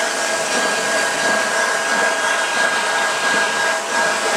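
Build-A-Bear stuffing machine running, its blower pushing fiberfill stuffing through the tube into a plush toy: a steady whooshing whir with a thin high whine, dipping briefly near the end.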